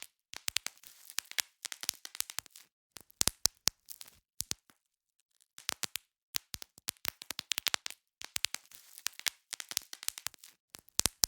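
Bubble wrap being popped: sharp, irregular pops in quick clusters, with crinkling of the plastic between them and brief pauses.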